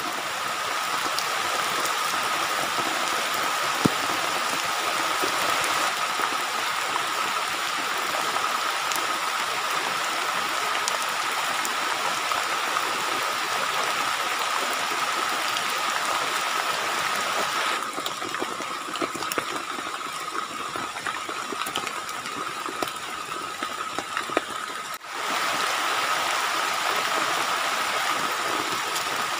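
Heavy rain pouring steadily onto wet forest ground, leaf litter and muddy puddles, a dense even hiss of water. A thin steady high tone runs through it, and the rain briefly drops out and resumes near the end.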